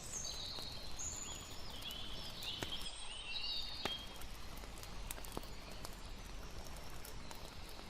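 Campfire and nature ambience: sharp crackles and pops of a burning wood fire over a steady hiss of water, with short high chirping calls in the first half.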